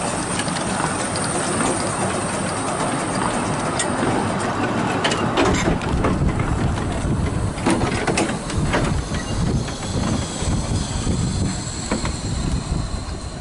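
A 2 ft gauge train of open wooden carriages hauled by the small steam locomotive Otter passing close by: steady rumble of wheels on rail, with scattered clicks and knocks as the wheels cross the rail joints.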